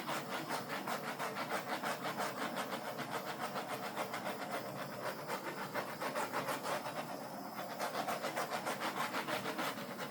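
Small handheld gas torch burning with a steady hiss, its level wavering several times a second, as its flame is passed over wet poured acrylic paint to pop bubbles.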